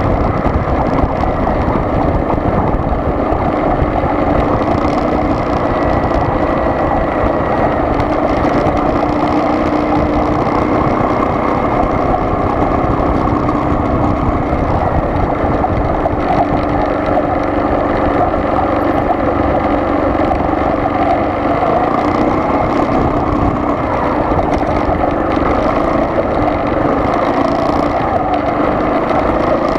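Steady engine and road noise of a car being driven, at a constant, even level.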